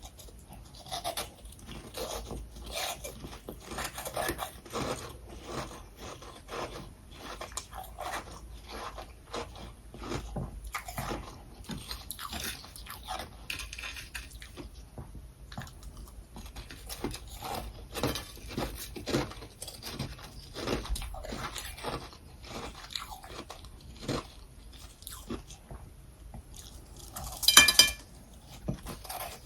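Close-up biting and chewing of freezer frost and crushed ice: steady, irregular crunching strokes, with one much louder crunch near the end.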